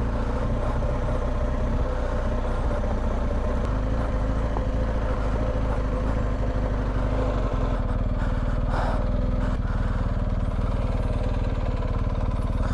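BMW R1250GS boxer-twin engine running at low, even revs on a sandy downhill track, with a brief knock about nine seconds in.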